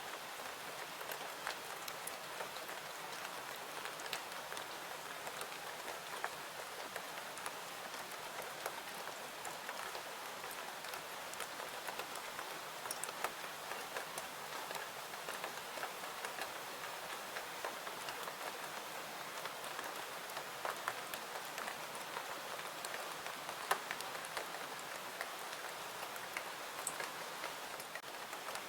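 Steady rain falling, an even hiss with many scattered sharp drop ticks and clicks throughout.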